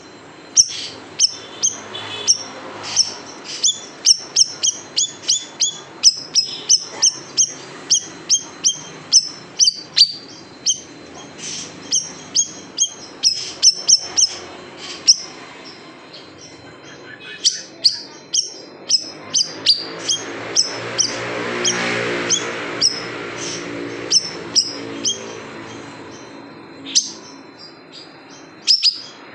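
A siri-siri songbird repeating sharp, high 'shot' chirps in quick succession, about two or three a second, with a short break about halfway. A low background rush swells up and fades away in the second half.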